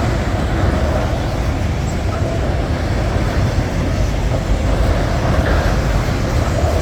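Norfolk Southern freight train rolling past, a loud steady rumble.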